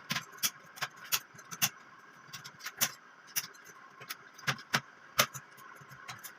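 Irregular sharp metallic clicks and taps, about two a second, some louder than others, from wire mesh being fastened to a wooden cage frame.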